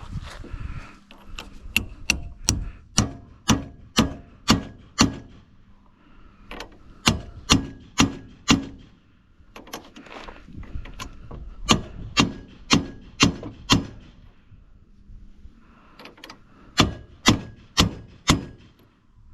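Repeated sharp metallic clicks or knocks, about two a second, in four runs with short pauses between them, each click ringing briefly, like hand-tool work on metal.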